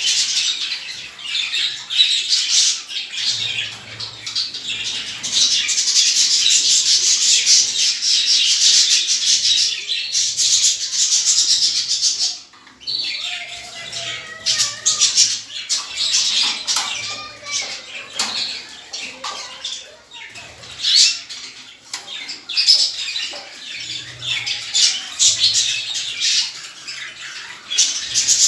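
Many small cage birds chirping and squawking together in a dense chatter, with wings fluttering.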